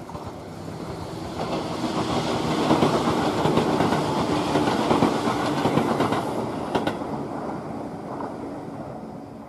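Tobu 634 series electric multiple unit passing by, its wheels clattering over the rail joints. The sound builds over the first couple of seconds, stays loud while the cars go past, and fades away near the end.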